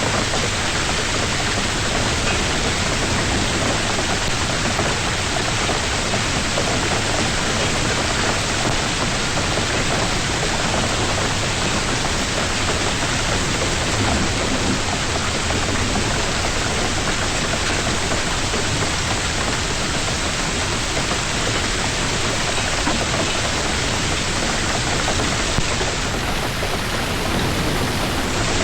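Hailstorm: hail and heavy rain coming down hard, a steady, dense hiss with no let-up.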